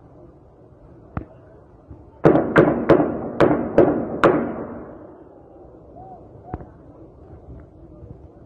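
Gunfire echoing off buildings in an exchange of fire: one shot, then about a second later six shots in quick succession over two seconds, then one fainter shot.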